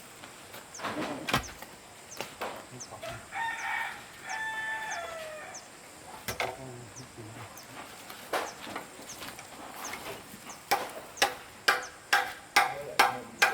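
A rooster crowing once, a two-part call ending on a falling note, about three seconds in. Near the end a run of sharp knocks comes about two a second.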